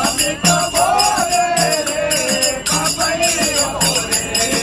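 Devotional bhajan sung by a group, with jingling hand percussion and a low drum-like knock on a steady beat, just under two beats a second.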